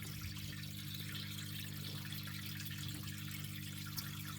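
Terrapin tank filters running: water trickling and splashing into the tank over a steady low motor hum.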